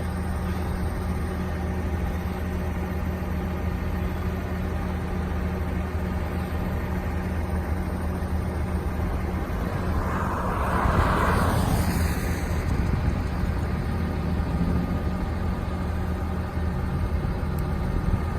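2010 Ram 5500's 6.7-litre Cummins diesel running steadily to drive the bucket-truck boom hydraulics as the boom retracts. A brief hiss rises over it about ten seconds in and dies away after two seconds.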